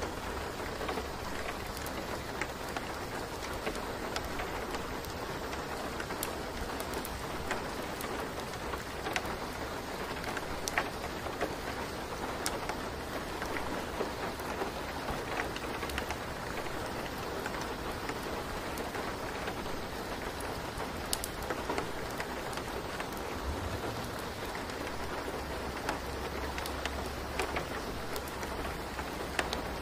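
Steady rain falling, with scattered sharp drop ticks and a low rumble that swells a little near the end.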